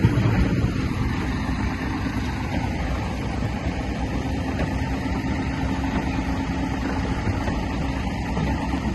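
Heavy diesel earthmoving machinery, a bulldozer working soil, its engine running steadily.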